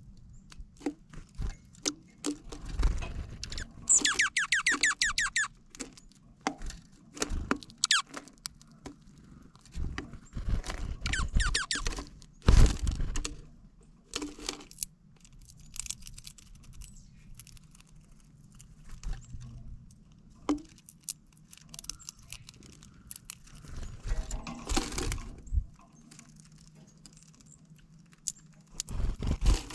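Dark-eyed junco giving two rapid runs of sharp, high chips that sound like laser-blaster fire, among scattered clicks and taps of birds pecking and cracking seed at a feeder. A dull thump about halfway through is the loudest sound.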